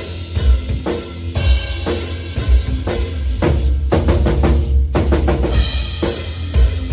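Drum kit playing a heavy metal rhythm, with bass drum, snare and cymbal hits over a sustained low band sound; about three and a half seconds in there is a fast run of hits, with a short break just before five seconds.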